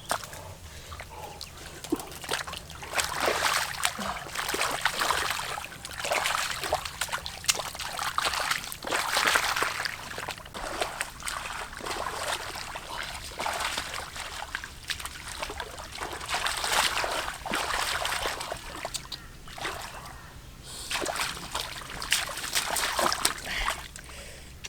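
Shallow water splashing and sloshing in irregular surges, swelling and fading every second or two, with small drips and spatters.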